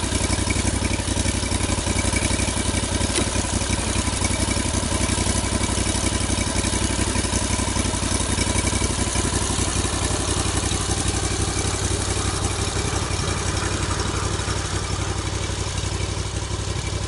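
Engine running steadily at an even, low speed, with no rise or fall in pitch.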